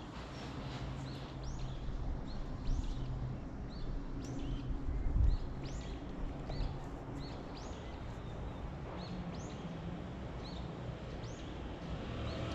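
Small birds chirping outdoors, short high notes several times a second, over a steady low rumble of background noise, with one low bump about five seconds in.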